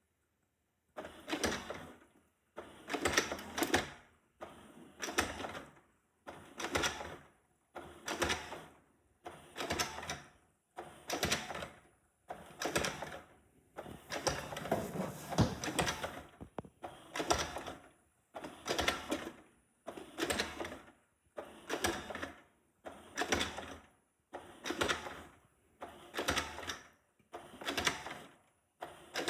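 Shark robot vacuum's motors whirring in short bursts, one about every one and a half to two seconds, each cut off by silence: the robot keeps starting and stopping, which the owner takes for a malfunctioning robot that keeps getting stuck.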